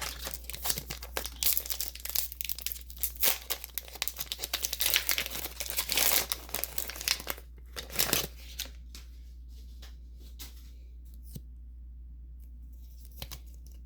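Foil Pokémon booster pack wrapper being torn open and crinkled, a dense crackling that runs for about seven and a half seconds, with one more short crinkle about a second later; then it goes quiet apart from a few faint clicks.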